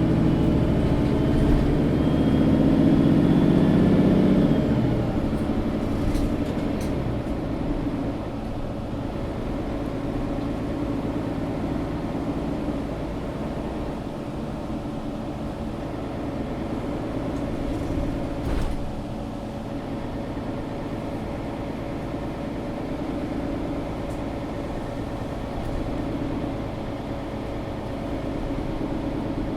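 Mercedes-Benz O530 Citaro G articulated bus heard from inside while driving. The engine runs loud under load for the first four seconds or so, then eases off to a steadier drone with road and body noise. A single knock comes a little past halfway.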